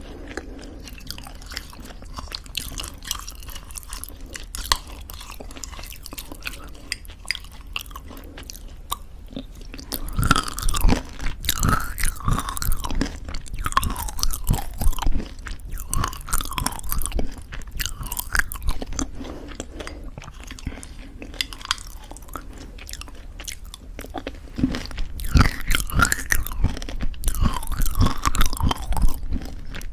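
Close-miked chewing of homemade granola in thick yogurt, with crisp crunching. Quiet small clicks for the first ten seconds or so, then louder bouts of crunching about ten seconds in and again near the end.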